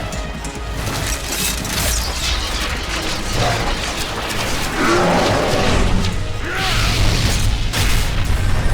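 Cartoon battle soundtrack: action music mixed with heavy crashes, booms and a constant low rumble of fight sound effects.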